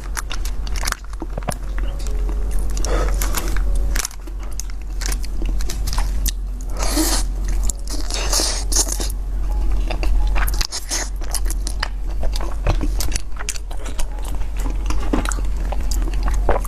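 Close-miked eating: irregular crunching bites and chewing, with many crisp clicks and crackles, over a steady low hum.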